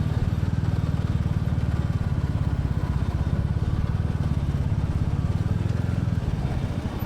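Royal Enfield Classic 350's single-cylinder engine running steadily under way, its exhaust beats coming in a fast, even pulse. It gets a little quieter near the end.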